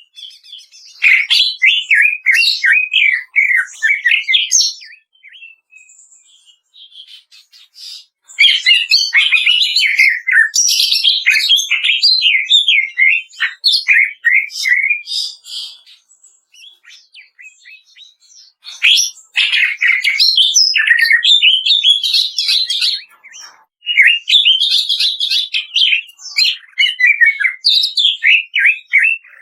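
Cucak ijo (leafbird) singing its rapid 'kretekan' song: dense runs of quick, varied chattering and whistled notes that slide up and down. The song comes in four bouts of a few seconds each, with short pauses between them.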